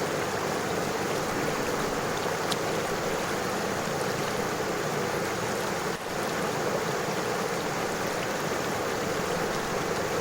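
A river flowing over stones, a steady even rush of water that dips briefly about six seconds in.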